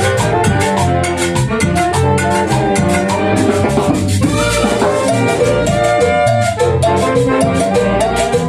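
Band music played loud and steady: held melody notes over a fast, even drum beat.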